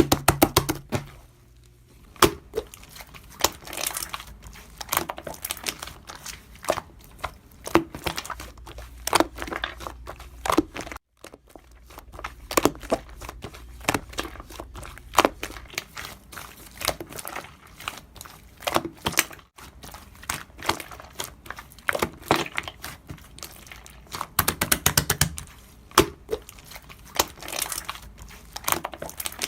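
Slime being squished and pressed by hand: a dense, irregular run of wet clicks, pops and crackles, bunched into clusters with brief pauses.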